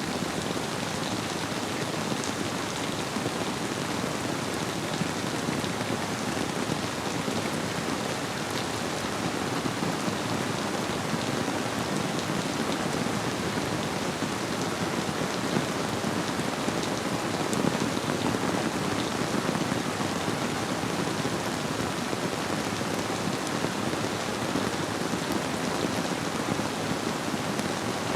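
Steady rainfall with close drops pattering on surfaces, a continuous even rush with scattered sharper drop ticks.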